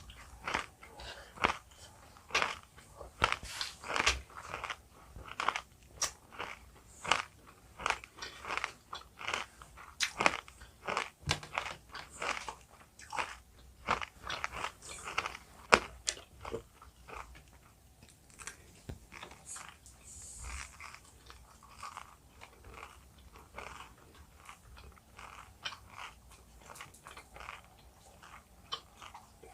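Close-up mouth sounds of someone biting and chewing jelly candy: a run of sharp crunches and wet clicks, dense for the first half, then fewer and quieter.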